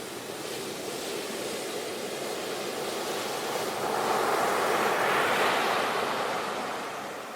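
Waves breaking and washing up on a beach: a steady surf hiss that swells to a peak about halfway through, then ebbs away near the end.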